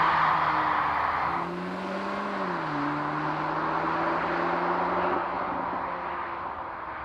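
Cupra Formentor VZ's 2.0-litre turbocharged four-cylinder engine running at light load. A rushing noise of tyres and wind fades out about a second and a half in. The engine note rises a little, drops about halfway through, then holds a steady low tone that slowly fades.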